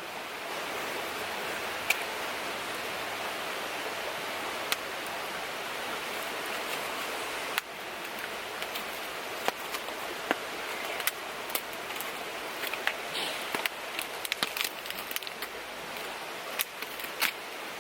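Steady rushing of a river flowing past. From about halfway on, it is overlaid by scattered sharp clicks and taps.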